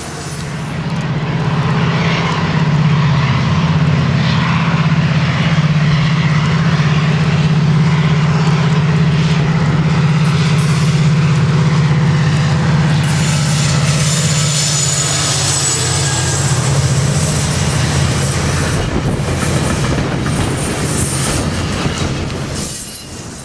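Passenger train passing close by, its diesel locomotive's engine giving a loud, steady low drone with the rumble of the train. The drone weakens and the sound drops off near the end as the cars go by.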